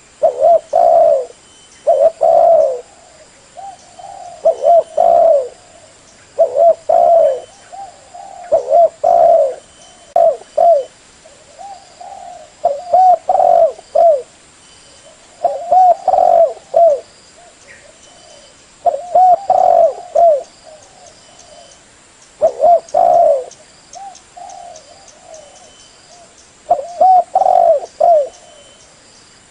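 Spotted dove (tekukur) cooing: short phrases of two or three coos, repeated about every two seconds.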